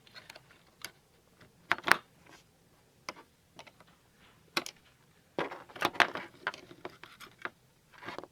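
Irregular clicks, taps and short scrapes of small hard parts being handled, as batteries and a bent battery contact spring in a toy's battery compartment are being worked into place. The clicks come singly, with a closer cluster about two-thirds of the way through.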